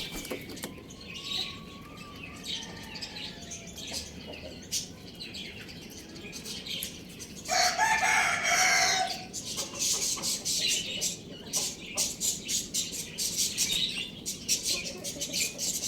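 A rooster crows once, loud, lasting about a second and a half, a little past the middle. Small birds chirp rapidly around it, thickening in the second half, with some clucking.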